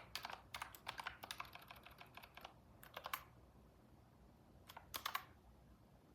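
Typing on a computer keyboard: a quick run of keystrokes over the first two and a half seconds, a short burst about three seconds in and another near five seconds, then it stops.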